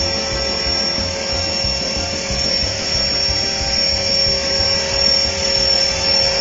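Blade 400 electric radio-controlled helicopter in flight, its motor and rotor giving a steady whine over a low hum.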